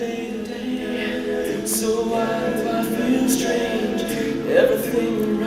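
An a cappella vocal group singing sustained chords with no instruments, its voices moving together through slow chord changes.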